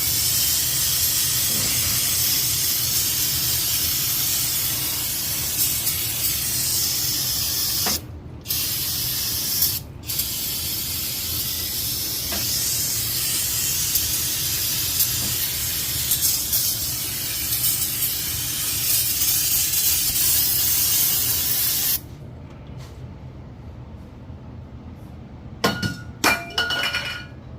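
Aerosol can of parts cleaner spraying in long hissing bursts, with two short pauses about eight and ten seconds in. The spraying stops about twenty-two seconds in, and a few light clicks follow near the end.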